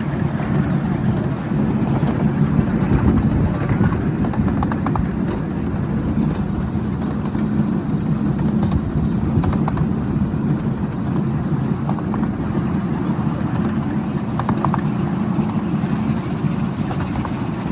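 Miniature ride-on railway train running: a steady low rumble with scattered small clicks.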